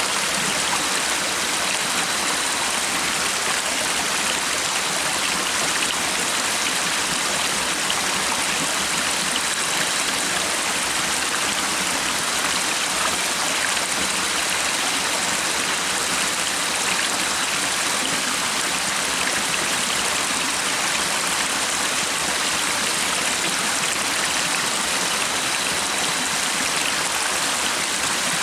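A stream's water running steadily, an even rushing hiss with no breaks or changes.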